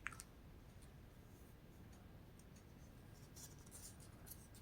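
Near silence, with a faint click and a few soft rustles from the pages of a paper catalog being handled, the rustles near the end.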